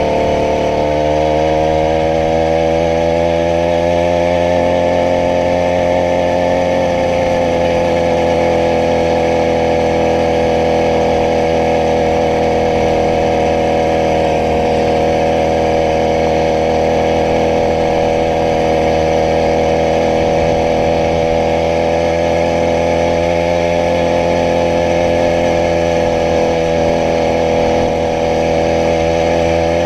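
80cc two-stroke bicycle engine kit running steadily; its pitch dips about a second in, climbs back over the next few seconds, then holds.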